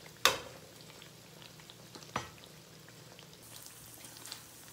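Oil sizzling faintly as a batter-coated naan shallow-fries in a non-stick wok. Two sharp clicks cut through it, a loud one just after the start and a weaker one about two seconds in.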